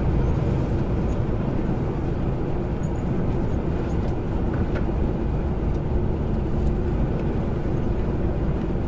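Steady engine and road noise of a semi-trailer truck on the move, heard from inside the cab.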